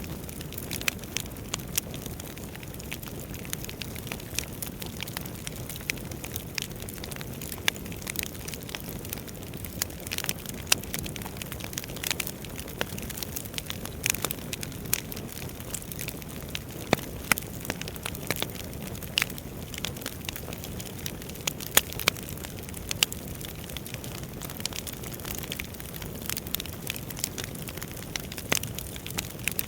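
Wood fire burning in a fireplace, crackling: a steady low rush of flame with frequent irregular sharp pops and snaps from the burning logs.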